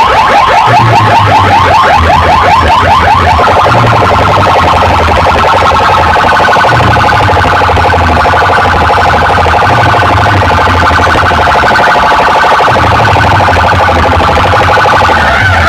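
Electronic alarm-like warbling tone, pulsing very rapidly, played loud through a DJ sound system over a pulsing bass line. It sweeps for the first few seconds, then holds steady, and guitar music comes back in near the end.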